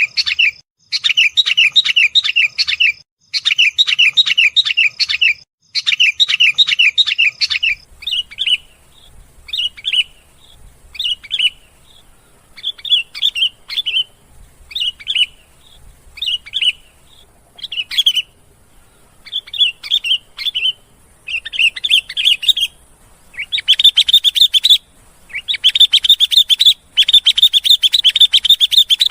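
Sooty-headed bulbul (kutilang) singing loud, rapid chattering phrases. At first it sings blocks of about two seconds; from about eight seconds in it drops to short separate phrases about once a second, then near the end it builds back into long dense chattering.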